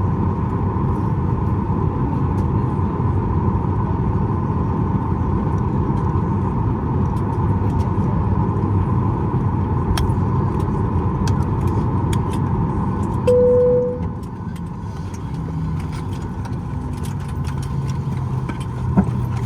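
Steady cabin noise of a Boeing 737 MAX 8 on the ground after landing, heard from a window seat. About 13 seconds in, a single cabin chime sounds, after which the cabin noise drops; scattered sharp clicks follow in the second half.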